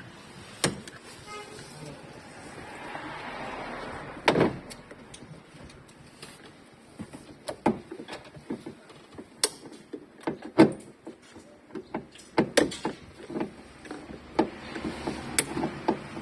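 Irregular clicks, taps and knocks of hand work on a car's sunroof assembly, as its parts are handled and unfastened, with one heavier knock about four seconds in.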